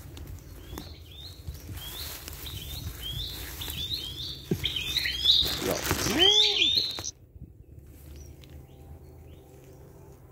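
A small bird chirping repeatedly, short high calls about twice a second that grow louder, then stop abruptly about seven seconds in. Footsteps rustle through the grass, with a few soft knocks.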